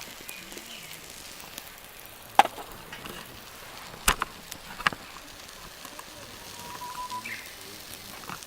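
Wood fire crackling, with a few sharp, loud cracks about two and a half, four and five seconds in.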